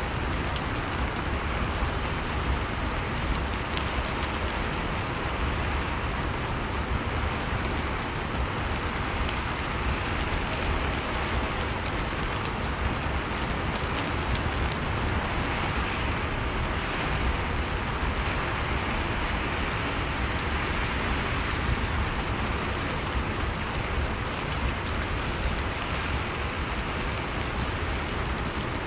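Steady rain falling on surfaces, an even wash of noise with scattered faint drop ticks.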